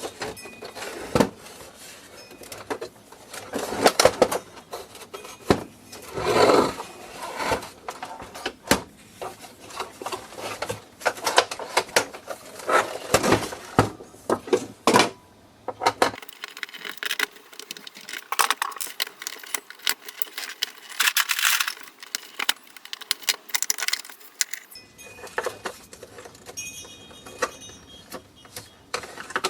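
Irregular clicks, knocks and light clinks of hand tools, screws and the plastic housing of a Nespresso coffee machine being handled and taken apart.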